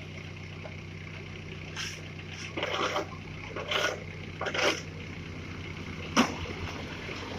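A vehicle engine running at a steady idle, with several short scraping bursts and a single sharp knock about six seconds in.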